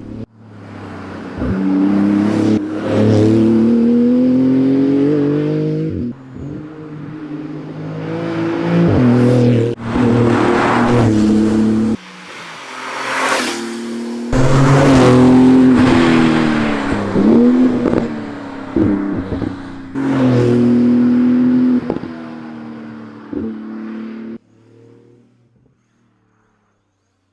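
Porsche 911 GT2 RS twin-turbo 3.8-litre flat-six engine running hard, its pitch climbing several times and dropping sharply between climbs, as in accelerating through gears or repeated revving. The sound cuts off near the end.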